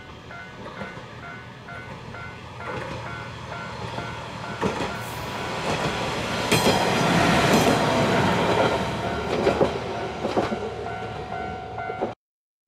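Yamagata Railway diesel railcar running past, its wheels clicking over the rail joints. It grows louder to a peak a little past halfway, then fades, and the sound cuts off abruptly near the end.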